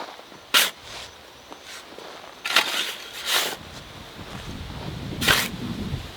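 Four sharp knocks or strikes, irregularly spaced one to two seconds apart, over a faint steady background.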